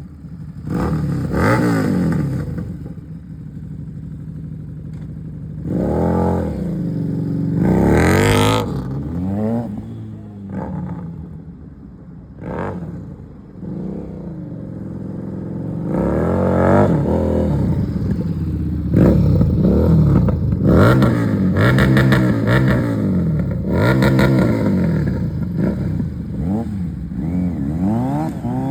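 Motorcycle engine being revved over and over, its pitch climbing and dropping with each twist of the throttle. It settles lower for a few seconds midway, then comes back with a long run of quick, hard revs.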